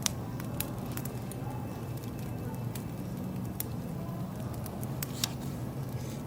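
Wood fire crackling, with a few sharp pops, the loudest at the very start and about five seconds in, over a steady low rumble.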